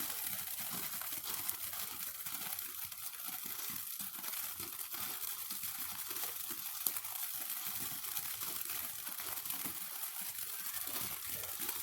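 Faint, steady outdoor background noise with light rustling and crackling texture; no firework goes off.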